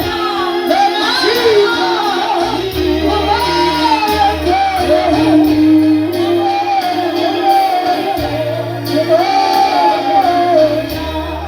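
Praise-and-worship singing with keyboard accompaniment, the voices carrying a wavering melody over held bass notes that change every second or two.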